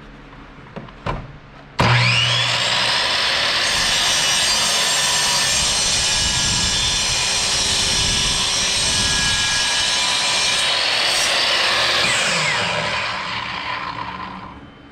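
An electric power tool switched on, whining up to speed, running about ten seconds with working noise, then switched off and winding down.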